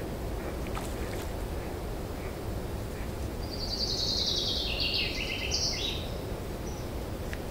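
Steady low outdoor background noise. About halfway through, a bird calls a quick run of high notes that steps down in pitch over about three seconds.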